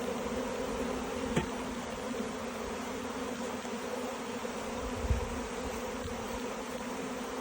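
A mass of honeybees buzzing in a steady, even hum. A sharp tick comes about a second and a half in, and a knock comes about five seconds in.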